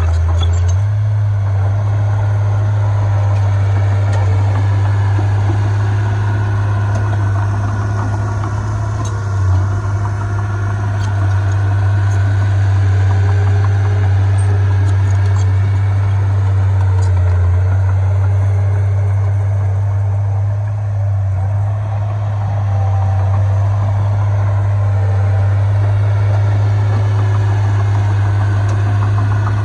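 Heavy diesel earthmoving machinery engine running steadily, a continuous low drone with no big changes in speed.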